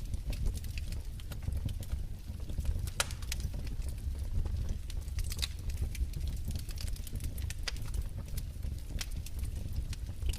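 Wood fire crackling in a fireplace: irregular sharp snaps and pops over a low steady rumble of burning, with a couple of louder pops.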